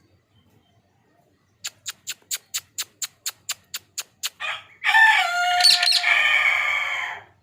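Ring-necked parrot calling: a quick run of about a dozen short, sharp chirps at about four a second, then a long, loud, harsh screech lasting over two seconds.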